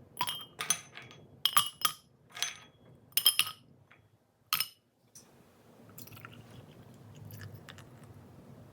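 Dishes and glassware clinking as they are handled and set down: about a dozen sharp, ringing clinks in the first five seconds, then softer scattered taps.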